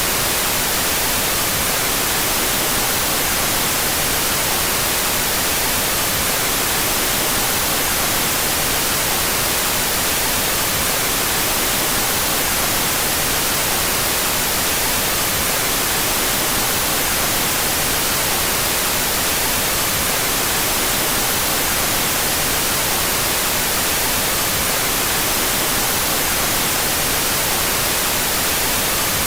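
Steady electronically generated white noise: an even, unbroken hiss, brightest in the treble. Its stereo channels are set out of phase with each other.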